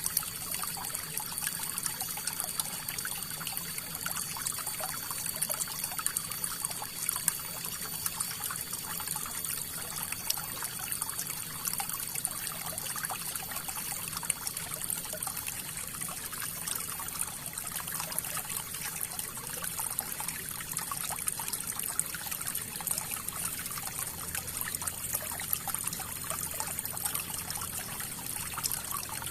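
River water flowing and trickling steadily over rocks, a constant splashy rush with many small splashes.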